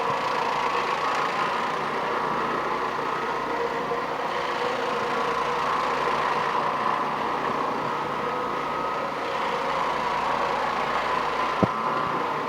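Electric floor-cleaning machine motor running steadily on carpet, with a single sharp click near the end.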